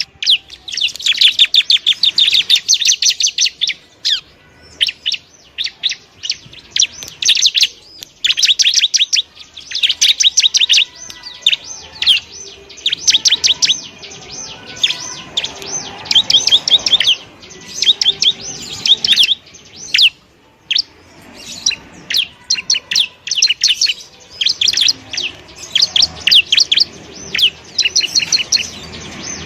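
Bar-winged prinia (ciblek) singing: loud, rapid trills of high chirping notes in bursts of one to two seconds, separated by short pauses.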